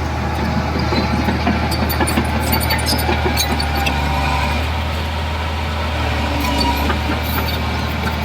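Crawler bulldozer's diesel engine running steadily with a deep drone, with scattered light clanks and clicks over it.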